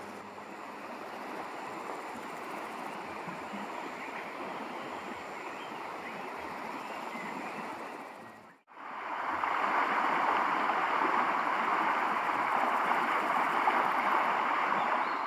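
Steady rushing of running water, like a stream. It breaks off for an instant a little over halfway through and comes back louder.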